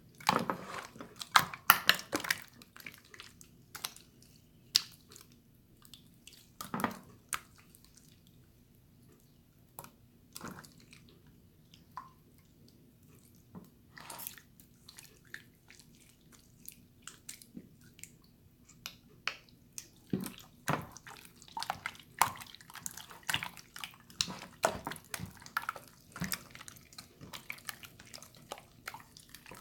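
Water slime being squished and played with by hand, making many short wet clicks, pops and drips. They come thickest in the first few seconds and again in the second half, with a sparser stretch in between.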